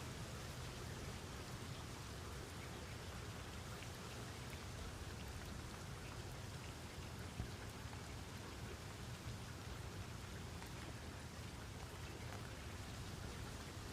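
Steady rain falling, an even hiss with a low rumble underneath and the odd louder drop.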